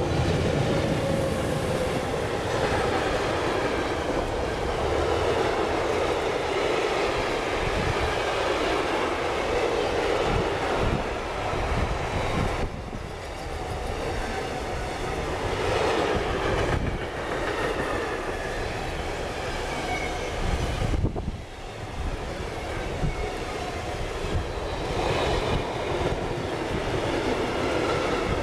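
Freight train passing close by: two ÖBB electric locomotives, then a long string of rolling-highway wagons carrying truck trailers. The wheels rumble and knock steadily over the rails.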